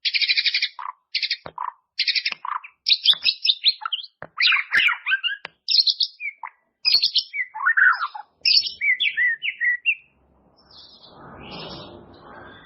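White-rumped shama (murai batu) singing a varied, high-pitched song of rapid trills, chattering phrases and short whistled notes. The song breaks off about ten seconds in, giving way to a soft rustling noise.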